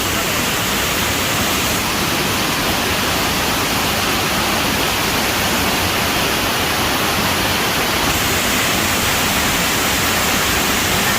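Waterfall water falling and splashing over rock, a steady, even rush with no change.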